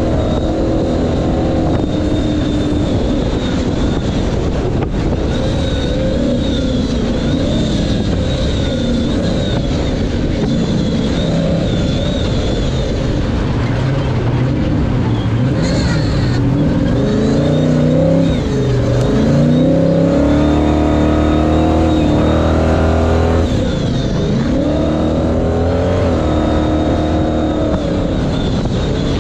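Ford Ranger pre-runner race truck's engine heard from on board, running hard under load as the truck is raced. The engine pitch climbs as it revs up about two-thirds of the way through, holds high for a few seconds, drops briefly and then climbs again.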